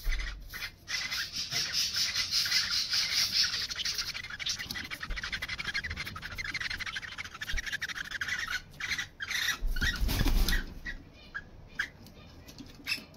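Pet parrots chattering and squawking in a dense, raspy stream for about ten seconds, with a brief louder, deeper burst near the end before it dies down.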